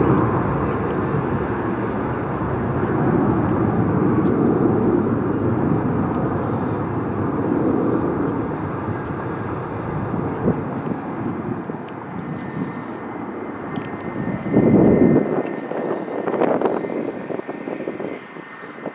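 Airliner engine noise from a passing aircraft: a broad, steady rumble that slowly fades. Small birds chirp repeatedly over it.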